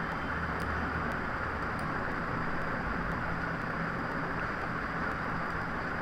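Steady background noise with a faint low hum and a few faint clicks.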